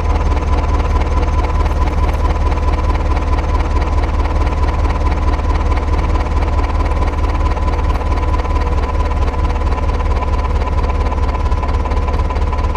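Small electric motor of a miniature DIY tractor's drilling machine running steadily, with a fast buzzing rattle and a steady whine.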